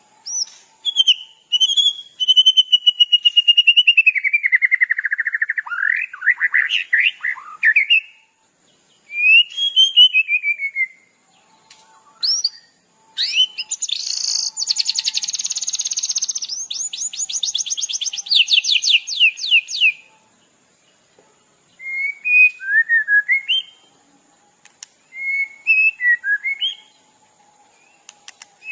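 Recorded songbird song used as masteran training audio: varied whistled phrases with falling slurs, a long fast run of rapid repeated notes in the middle, and short chirpy phrases near the end, separated by brief pauses.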